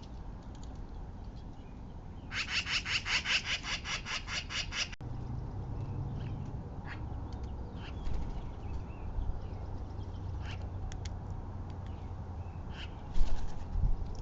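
An animal's chattering call: a fast run of about fifteen sharp, repeated notes, roughly six a second, lasting nearly three seconds. Scattered light clicks follow, and a sharp thump about thirteen seconds in.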